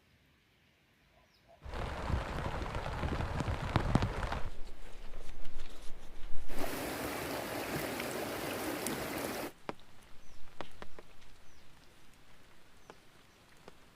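Heavy rain with a steady hiss, in two stretches that start and stop abruptly, the second one brighter; between and after them come scattered light taps and a few bird chirps.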